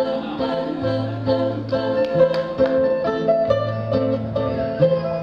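A band playing live: plucked guitar over a steady bass line that moves between two low notes, an instrumental stretch between sung lines.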